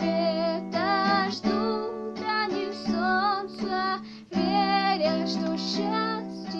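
A song: a female voice singing long held notes with vibrato over acoustic guitar.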